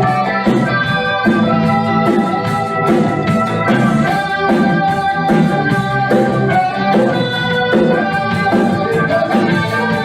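A band playing an instrumental passage: held organ-like keyboard chords with guitar, changing every second or two, and no singing.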